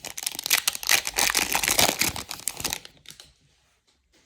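Crinkling and tearing of a trading card pack's foil wrapper as it is opened, a dense crackle that stops about three seconds in.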